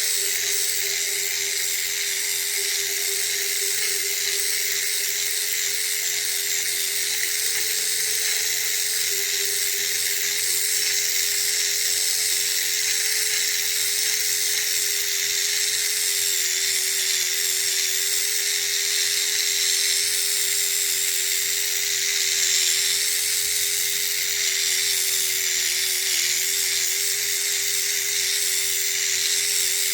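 A small electric motor running steadily, a constant whine over a high hiss.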